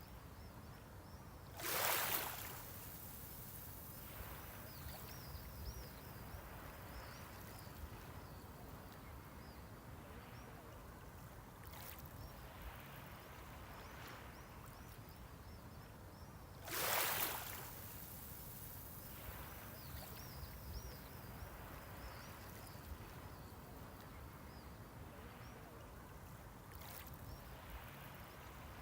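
Sea waves on the shoreline: two waves break with a loud rush, about fifteen seconds apart, with a steady low wash of water between them and fainter washes in between.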